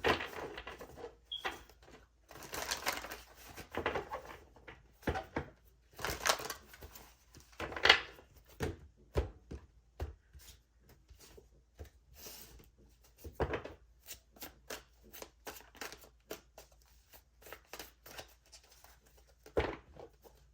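A tarot deck being shuffled and handled: an irregular patter of card flicks and taps, with louder rustling bursts now and then and a quick run of small ticks in the second half.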